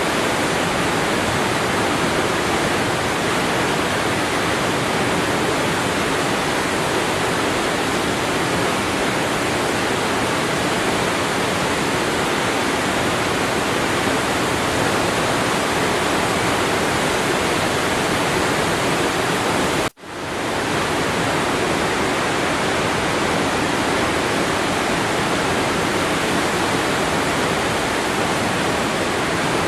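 Waterfall: a steady, even rush of falling water. About two-thirds of the way through it cuts out for an instant and fades straight back in, like a loop splice in the recording.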